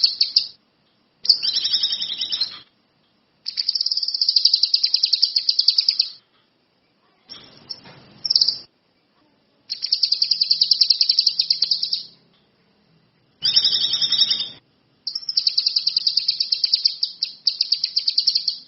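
Small songbird singing in repeated bursts of very rapid, high, buzzy trills, each one to three seconds long with short silences between, used as a song-tutoring (masteran) recording.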